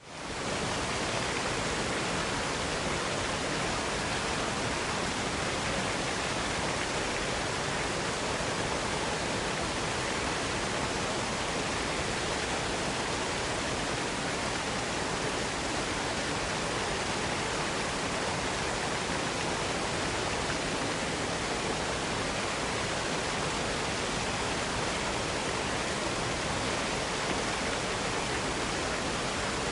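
Waterfall cascading: a steady, even rush of falling water that fades in at the very start.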